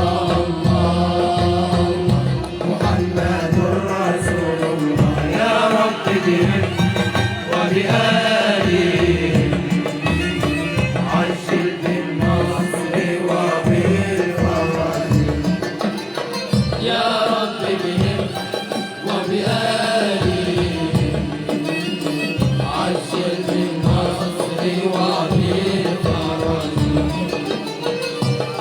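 Malouf ensemble performing live: a chanted vocal melody carried over a steady rhythm of hand-drum strokes.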